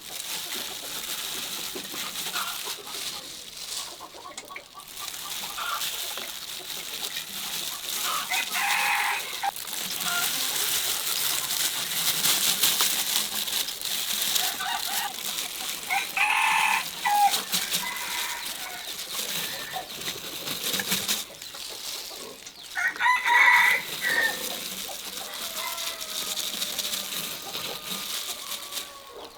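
A rooster crowing three times, about seven seconds apart, with hens clucking in between over a steady background hiss.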